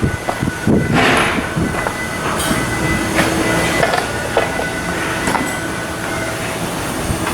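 Shipyard work noise: a steady mechanical rumble with scattered metallic knocks and clanks.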